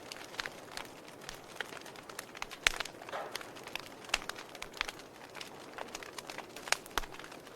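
Burning logs in a fireplace crackling: irregular sharp pops and snaps over a soft hiss, with the loudest pops about two and a half seconds in and near the end.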